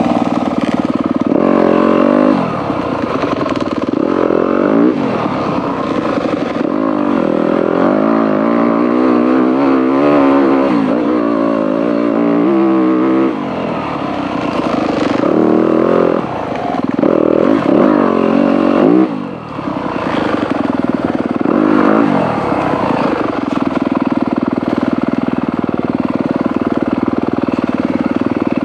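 Dirt bike engine running under a rider on a trail, its revs rising and falling over and over as the throttle is opened and closed.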